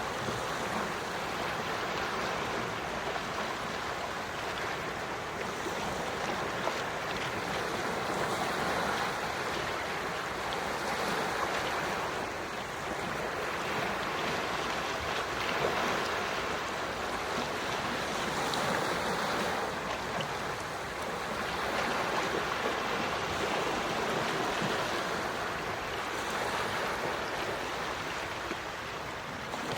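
Quiet sea waves washing onto the shore, a steady wash that swells and eases every few seconds.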